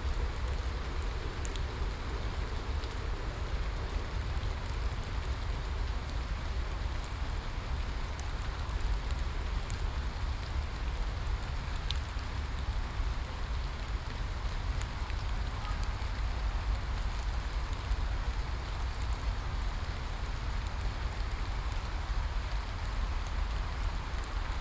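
Steady rain falling on a surface, with scattered individual drop ticks over a continuous low rumble.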